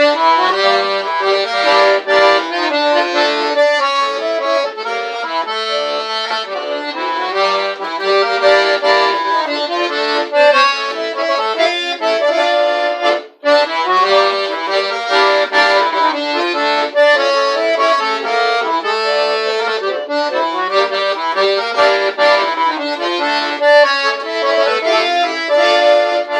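Accordion playing the instrumental introduction to a song, with a short break about thirteen seconds in.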